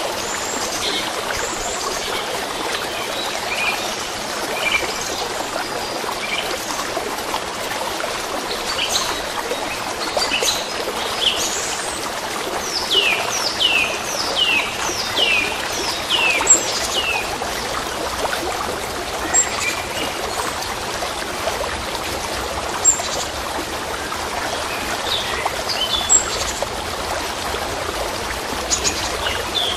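A stream trickling and running steadily, with small birds chirping over it; partway through, one bird gives a quick series of about eight falling whistled notes.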